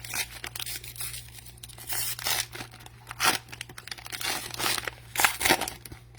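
Cellophane wrapper of a football trading-card cello pack being torn open and crinkled by hand: a run of sharp crackling rips and crinkles, loudest in bursts around two, three, four and five seconds in.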